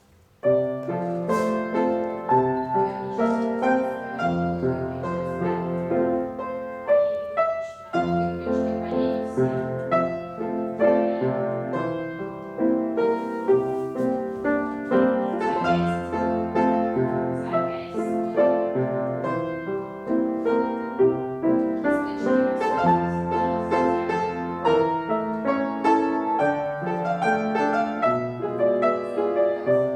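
Piano playing a classical-style accompaniment for a ballet class exercise, starting about half a second in, with a short break in the phrase about eight seconds in.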